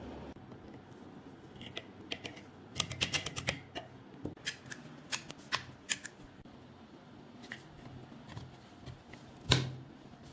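Irregular small clicks and taps of metal gun parts being handled and set down, coming thick and fast in the first half, then one sharp, loud knock near the end.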